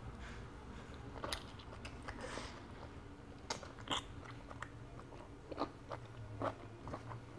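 Close-up mouth sounds of a person biting and chewing cooked conch (sea snail) meat, which is very chewy: scattered faint wet smacks and clicks at irregular intervals.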